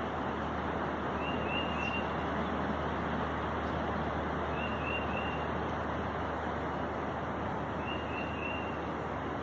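Steady rushing noise of strong wind. A bird calls three times over it, each call a quick run of three high chirps, about three seconds apart.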